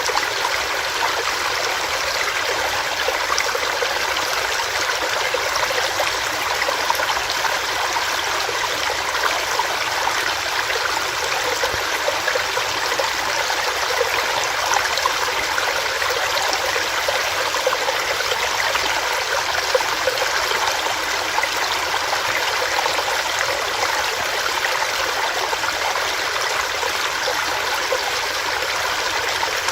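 Small rocky stream of water running over rocks, a steady, unbroken rushing and babbling.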